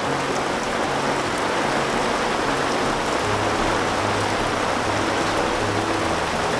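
Torrential rain pouring down, a dense steady hiss of heavy rainfall beating on the tent.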